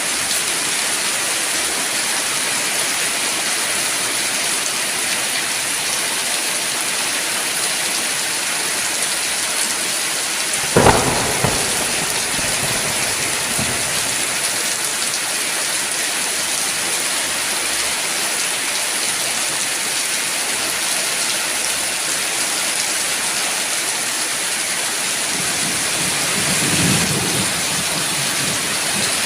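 Heavy, steady rain falling, with a sharp thunderclap about a third of the way in that rumbles on for a couple of seconds, and a softer roll of thunder near the end.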